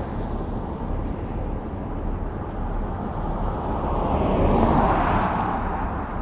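Steady low rumble of wind and road noise; a vehicle passes, swelling and fading about four to five seconds in.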